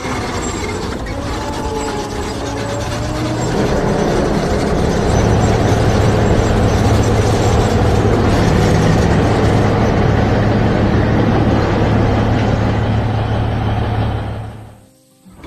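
Heavy construction machine engine running with a steady low hum and mechanical rattling. It starts suddenly, grows louder about four seconds in, then fades out near the end.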